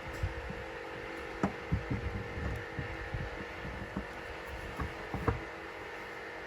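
Scattered light knocks and clicks of the grease gun's metal parts being handled during reassembly, over a steady background hum.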